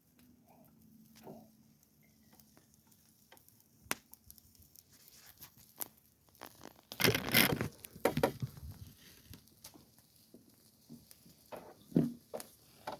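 Handling noises: scattered light clicks and rustling, with a louder crinkling, tearing sound about seven seconds in and a sharp knock near the end.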